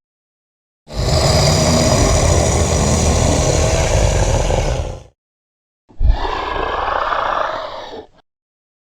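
Two designed dragon roar sound effects, one after the other. The first is a loud, long roar of about four seconds. After a short gap comes a shorter one of about two seconds that opens with a low thump and sounds duller.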